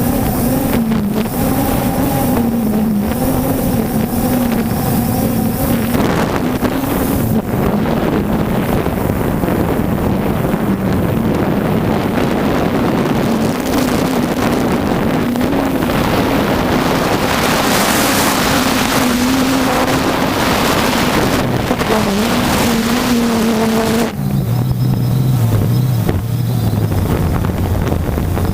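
3DR Solo quadcopter's motors and propellers humming, the pitch wavering up and down, under heavy wind buffeting on the microphone. Near the end the hum drops to a lower pitch.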